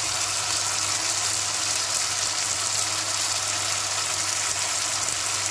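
Potato slices in oil and masala sizzling in an aluminium kadai on a low flame, a steady hiss with a low steady hum underneath.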